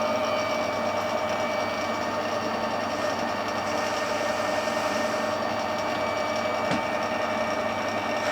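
Metal lathe running steadily, turning a workpiece held by friction in a Morse taper and supported on a centre, with a steady whine over the machine noise.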